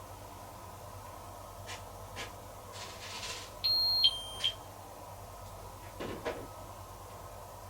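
Steady low hum of a Miele heat-pump tumble dryer running mid-cycle, with a few faint clicks. About halfway through, a short electronic beep sounds in two steps, a higher tone then a slightly lower one, followed about two seconds later by a soft knock.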